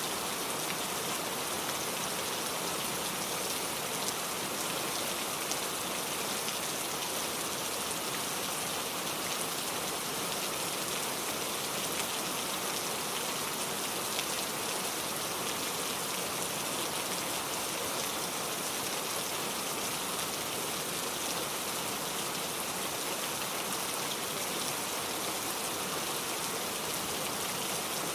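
Steady rainfall: an even hiss of rain with the light patter of drops on surfaces, unchanging throughout.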